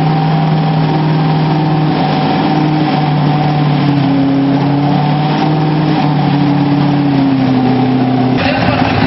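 Factory Five GTM supercar's engine running loud and steady at held revs. About eight seconds in, the sound changes abruptly: the low tone drops out and the note turns harsher.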